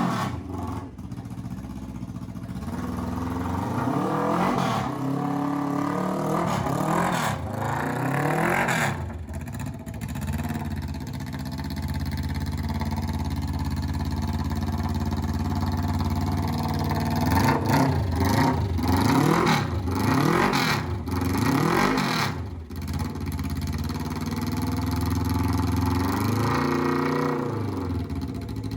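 Suzuki GS400's parallel-twin engine running and being revved in quick blips, the pitch rising and falling again and again. It settles to a steady idle in the middle, then is blipped again.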